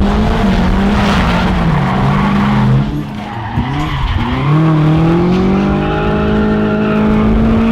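Drift car engine running hard with the revs wavering, dropping about three seconds in and then climbing again and holding, with tyre squeal and skidding.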